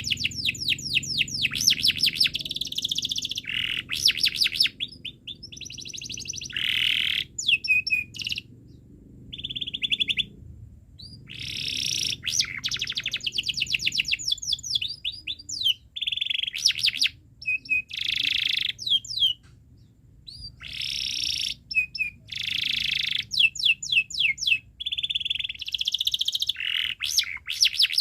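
Domestic canary singing: long phrases of fast repeated chirps and rolling trills, broken by short pauses.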